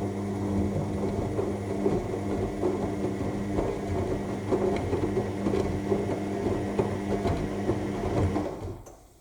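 AEG 7000 Series front-loading washing machine turning its drum during the main wash: a steady motor hum with laundry and water tumbling and small clicks and rattles. It stops near the end as the drum pauses between turns.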